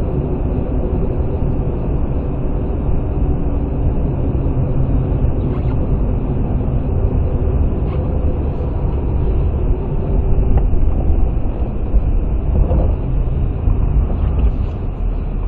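Steady rumble of a moving vehicle as recorded by a dashcam, engine and road noise with no clear event.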